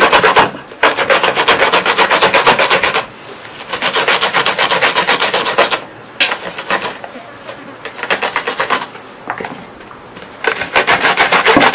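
Okra being grated on a small hand grater: quick, rhythmic rasping strokes in runs of about two seconds, broken by short pauses.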